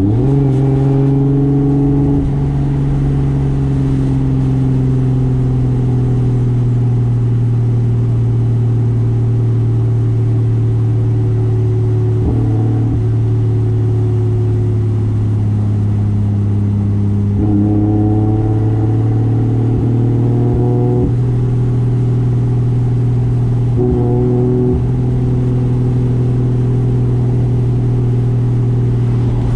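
Single-turbo 2JZ straight-six engine of a 1995 Toyota Soarer running at steady, moderate revs, a constant engine note with brief shifts in tone about twelve seconds in, around eighteen to twenty-one seconds, and again near twenty-four seconds.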